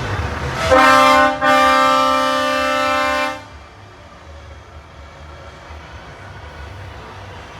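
Truck air horn sounding one steady note: a short blast, then after a brief break a longer blast of about two seconds that cuts off, over the low rumble of idling truck engines.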